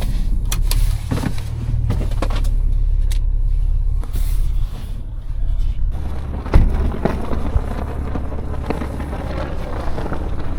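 Audi S5's supercharged V6 running under way on a snowy road, a steady low drone with scattered sharp clicks. A rushing hiss joins it about six seconds in.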